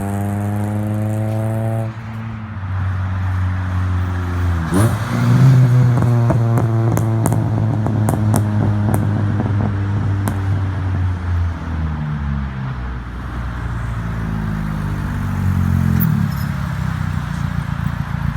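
Honda Accord CB7's four-cylinder engine through a full straight-pipe stainless exhaust, driving by with a steady drone, then a quick rev about five seconds in. As it eases off, the exhaust lets out a string of small pops.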